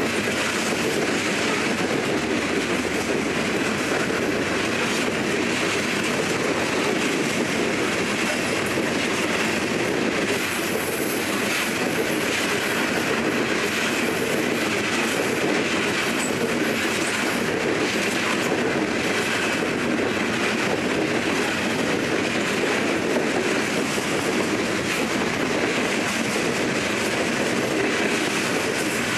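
A BNSF train's cars rolling steadily past on the rails, with a continuous rumble and wheels clicking over the rail joints.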